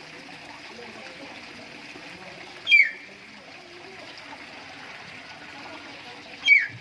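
Steady trickling of running water at a fish pond during a fish harvest. Twice, about four seconds apart, a loud, short call sweeps downward in pitch.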